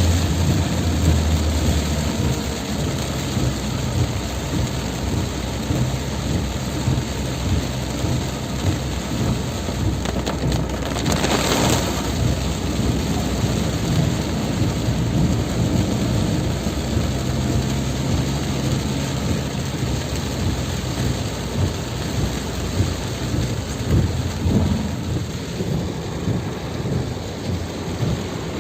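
Heavy rain pouring steadily, with a low rumble beneath it and one brief louder whoosh about eleven seconds in.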